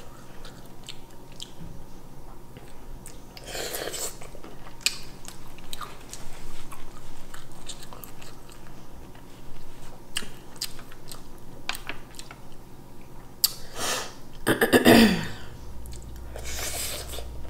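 Close-up chewing and mouth sounds of someone eating shrimp and mussels, with scattered small clicks and a few louder breathy sounds, the loudest about fifteen seconds in.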